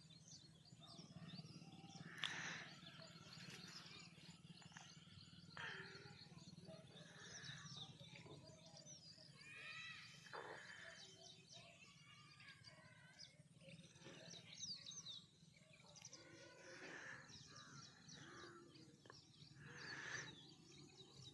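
Faint birds chirping and calling over a low steady hum, with a few louder calls every few seconds.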